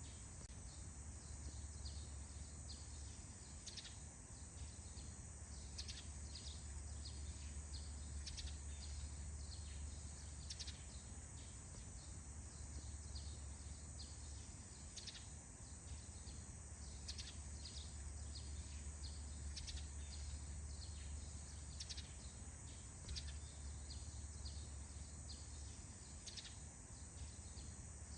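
Forest morning ambience: birds chirping in many short, high calls, over a thin steady high insect buzz and a low hum.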